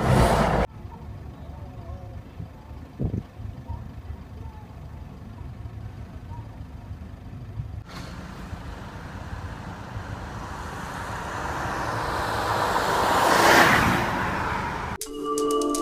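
Road traffic: a low rumble of vehicle engines and tyres, then a vehicle passing close, swelling to its loudest shortly before the end and fading. A short music jingle begins near the end.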